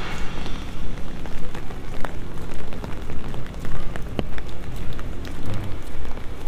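Steady rain falling on wet paving stones and a cobbled street, with a few sharper drip clicks.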